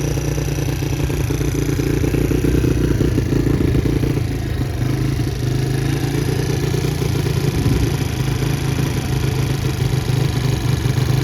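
Can-Am DS90 ATV's small single-cylinder engine running steadily at a high idle, which the owner puts down to a fuel issue.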